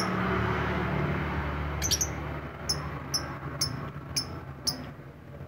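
Lovebird chirping in its 'ngetik' style: short, sharp, high chirps about twice a second, with a quick cluster about two seconds in, over a steady background hiss and low hum.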